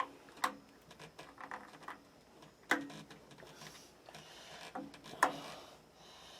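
Hand work on the parts and fittings: four sharp clicks and small knocks, with faint scraping and rustling between them.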